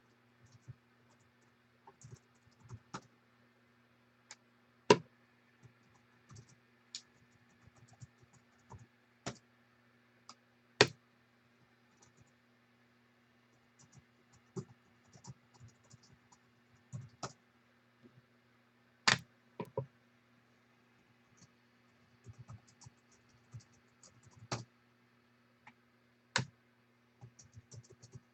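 Irregular clicks and taps of typing on a computer keyboard, with a handful of sharper, louder clicks scattered through, over a steady low hum.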